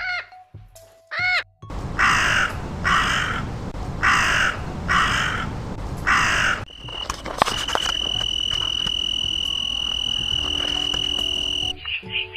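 A string of animal calls: two short arched calls, then five harsh calls about a second apart, then a steady high-pitched tone held for about five seconds.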